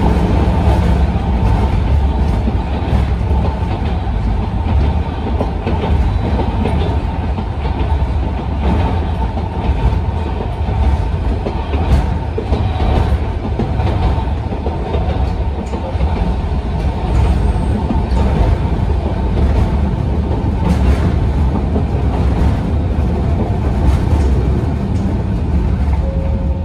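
Interior running noise of a Sangi Railway Hokusei Line narrow-gauge electric car, Mo 275, under way: a steady rumble of wheels and running gear on the rails, with a few sharp clicks as the wheels cross rail joints.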